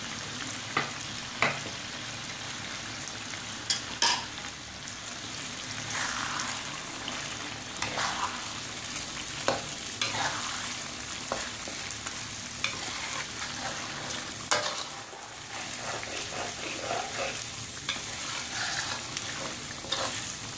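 Sambal tumis, a chilli paste with squid and sliced onions, sizzling steadily in a wok while a spatula stirs it, scraping and clicking against the pan every second or two.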